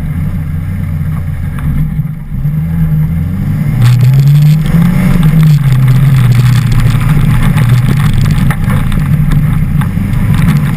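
Honda Civic rally car engine being driven hard, its pitch rising and falling as it revs and changes gear. It gets louder about four seconds in, with a scatter of short clicks and knocks over the engine.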